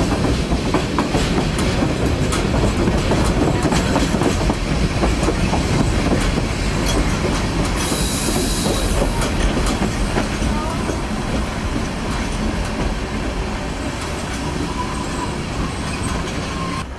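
Narrow-gauge passenger train running, heard from an open-sided coach: wheels clicking over the rail joints as the train slows into a station. A brief hiss comes about eight seconds in, and faint wheel squeals near the end.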